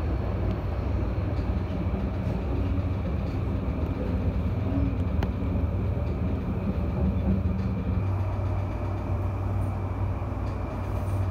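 JR Yamanote Line electric commuter train running, heard from inside the car: a steady low rumble of wheels and motors as it pulls out of a station and moves along the tracks.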